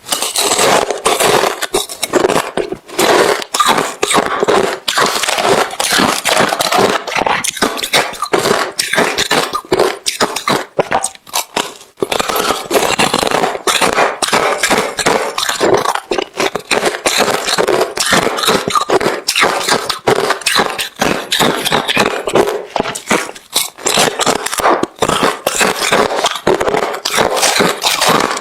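Hard refrozen crushed ice being chewed close to the microphone: dense, continuous crunching and cracking, with a brief lull about twelve seconds in.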